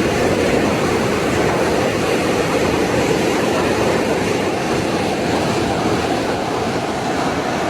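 Steady, loud rush of water from a heavy downpour and floodwater, unbroken and without pauses.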